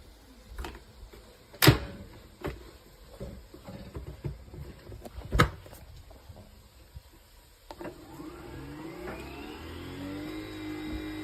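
Clicks and two loud, sharp plastic clacks as the Nespresso Vertuo Pop+ is handled. Then, about 8 s in, the machine's motor starts: a whine that rises in pitch and then holds steady as it spins the capsule to begin brewing.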